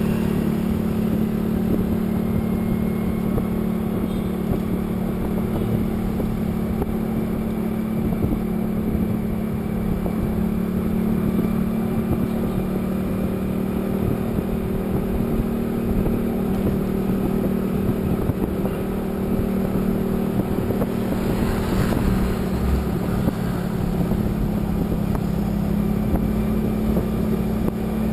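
A vehicle engine drones steadily at an even cruising speed, with constant road and wind noise. A brief swell of rushing noise comes about three-quarters of the way through.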